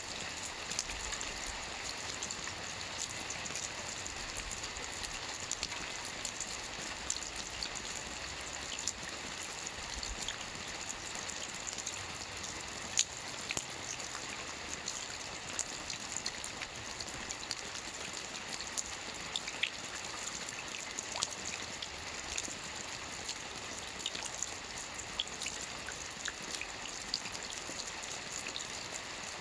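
Soft rain falling on a roof: a steady patter of many small drops, with now and then a single louder drop, one sharper than the rest about 13 seconds in.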